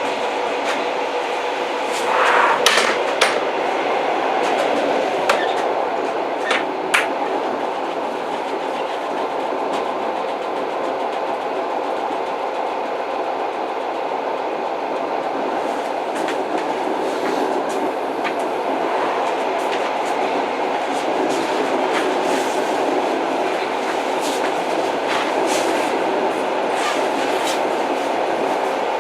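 An old train running: a steady rolling rumble with sharp clicks and knocks from the wheels and carriage scattered through it, loudest in a cluster about two to three seconds in.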